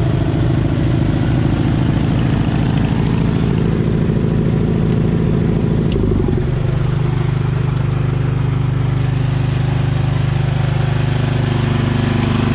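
Garden tractor engine running steadily; about six seconds in its note changes, settling lower and steadier.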